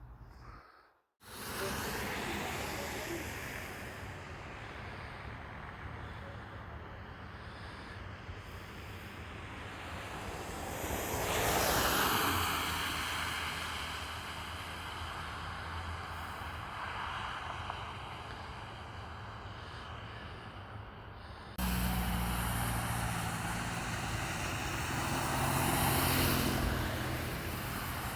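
Road traffic: a steady background rush with vehicles passing twice, each swelling and fading over a few seconds, about a third of the way in and near the end. The background changes abruptly about three-quarters of the way through.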